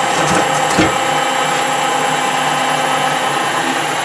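Small metal-turning lathe running steadily under a turning cut, a steady machine hum with several fixed tones. A few sharp ticks come in the first second.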